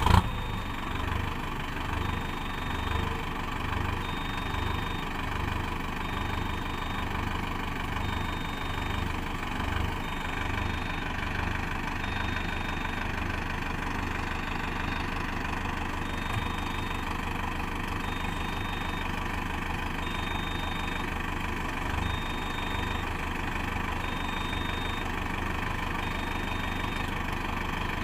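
Mahindra Arjun Novo 605 DI-MS tractor's diesel engine catching at the very start, then idling steadily with a low, pulsing throb.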